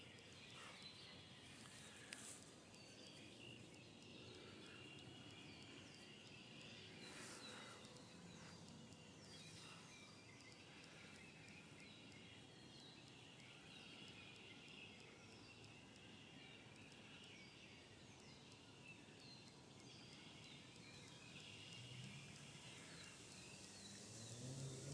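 Near silence in woodland, with faint scattered bird chirps and calls and a couple of faint clicks.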